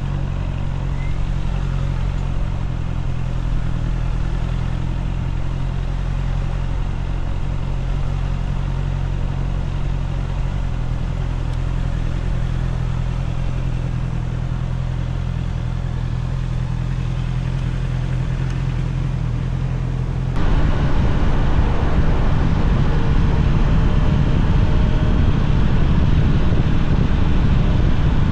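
Honda CBR650R inline-four engine idling steadily. About two-thirds of the way through, the sound switches abruptly to a louder rush of wind noise over the microphone, with the engine running underneath.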